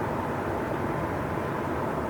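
Steady train-station ambience: an even, low-pitched din with a faint steady hum and no distinct events standing out.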